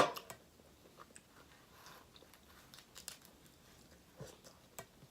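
A seafood shell cracks loudly and sharply right at the start, followed by scattered smaller cracks, clicks and chewing close to the microphone as crab and shrimp are eaten.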